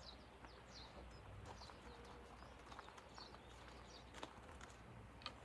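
Faint outdoor quiet with small birds chirping now and then in short, high, falling notes, and a few soft clicks.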